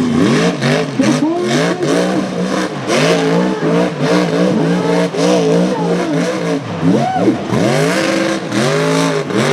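Mega truck engine revving hard again and again, its pitch climbing and falling about once a second, with one sharp high rev about seven seconds in.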